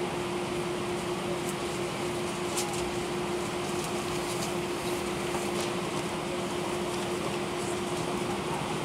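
Steady cabin noise of an Airbus A319-131 in flight: an even rush of airflow and engine noise from its IAE V2500 turbofans, with a steady droning hum and a few faint ticks.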